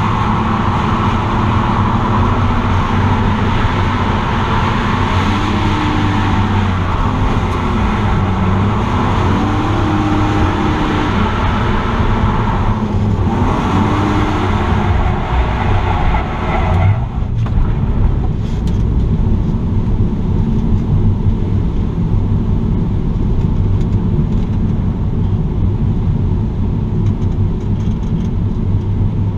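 BMW E46 M3's straight-six engine and the car's road noise, heard from inside the cabin while driving on the drift course. The engine revs rise and fall through the first half. About seventeen seconds in, the brighter upper part of the noise drops away, leaving a steadier, duller running sound.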